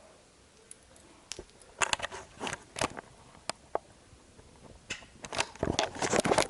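A scattering of sharp clicks and knocks, a few at first and then a dense, louder run of them near the end.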